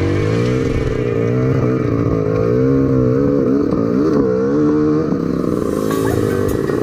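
Motorcycle engine running under changing throttle, its pitch rising and falling over and over.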